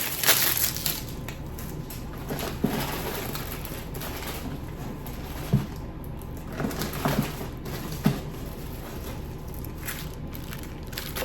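Plastic packaging crinkling and rustling as it is handled and opened, with a few light knocks.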